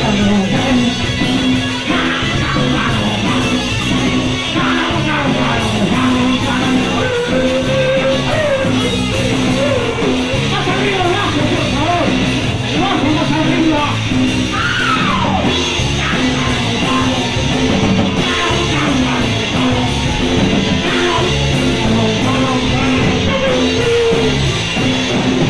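A punk band playing live, with distorted electric guitar, bass and fast drums under yelled vocals. The song stops right at the end.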